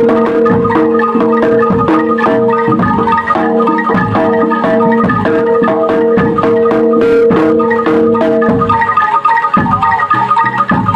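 Gamelan-style music: struck metal pitched percussion playing fast repeated notes over a held gong-like tone, with a steady drum beat. The held tone drops out about nine seconds in and the playing turns choppier.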